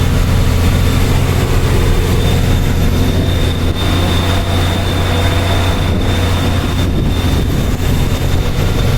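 Truck engine running steadily under load as it climbs uphill: a constant low drone, with a faint steady high whine over it.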